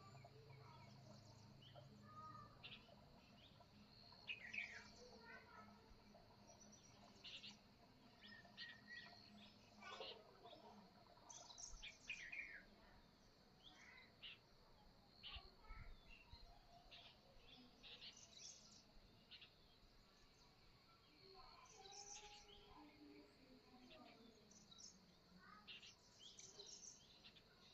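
Faint outdoor bird chorus: several birds giving short, scattered chirps and calls, some overlapping, some sweeping quickly in pitch.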